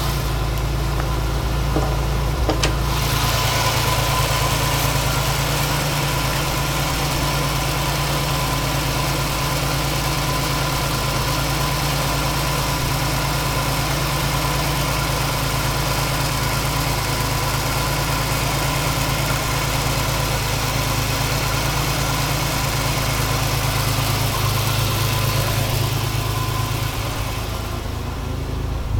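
A car engine idling steadily while warming up after a cold start.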